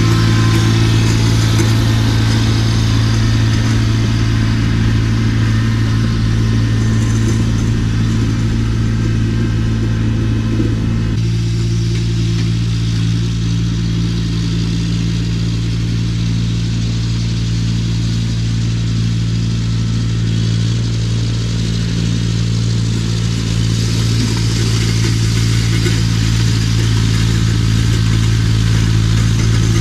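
Tractor engine running at a steady speed, with a constant low hum; the higher-pitched mechanical noise over it drops away about eleven seconds in.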